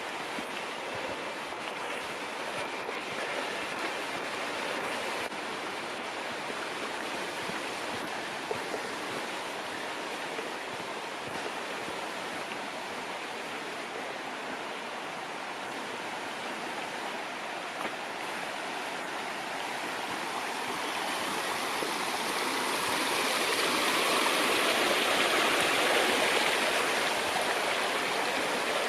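Running water of a stream rushing steadily, swelling louder about two-thirds of the way through and peaking near the end.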